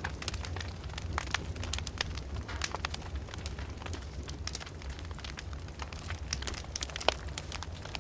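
Fireplace fire crackling: many irregular sharp pops and snaps over a steady low rumble, with one louder pop about seven seconds in.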